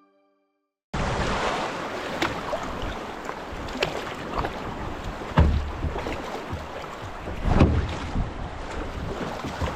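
After about a second of silence, wind buffets the camera's microphone on a canoe moving down the river, with a rushing hiss of water and air. Gusts rumble several times, and a few sharp knocks come through.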